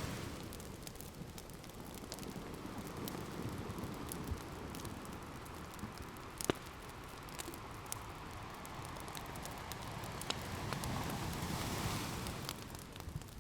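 Ocean waves washing in as a soft rushing swell, one wave building about three quarters of the way through, with an open fire crackling over it in scattered sharp pops and ticks.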